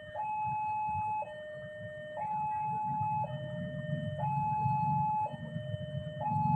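Level-crossing warning alarm sounding a two-tone signal, a higher and a lower tone alternating about once a second. A low rumble builds up underneath from about three seconds in.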